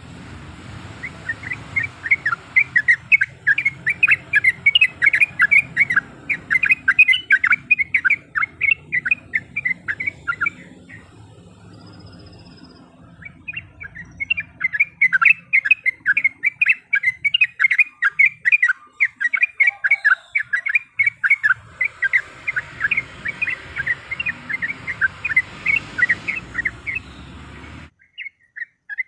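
Yellow-vented bulbul (trucuk) singing a long run of quick chattering notes, several a second. It breaks off for about three seconds in the middle, resumes, then cuts off abruptly near the end. A low background rumble lies under the song until the cut.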